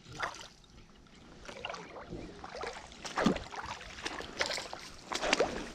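Irregular small splashes and knocks in shallow creek water, a few louder ones after about three seconds and again after five.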